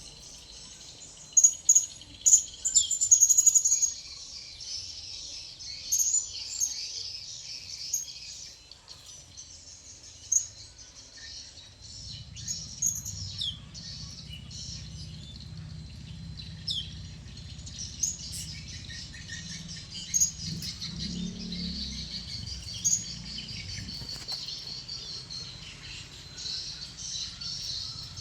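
Blue-crowned hanging parrots (serindit) giving short, sharp high-pitched chirps, with a burst of loud calls in the first few seconds and scattered calls after that over a steady high chorus. A low rumble joins about twelve seconds in.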